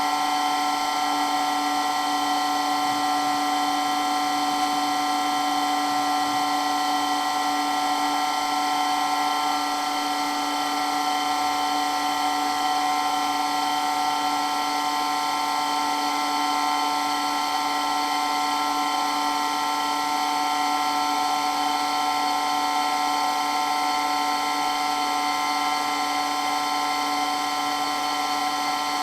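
Water pump running steadily, giving an even, high-pitched whine over a lower hum, with no change in speed or level.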